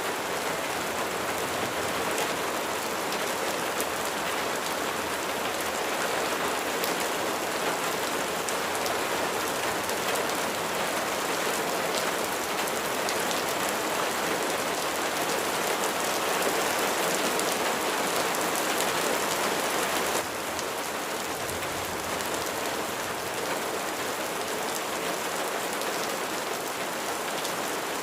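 Steady rain falling, a dense even hiss with scattered drop taps. The level drops slightly about 20 seconds in.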